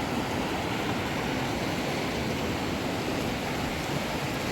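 A river flowing steadily, a continuous even rush of water.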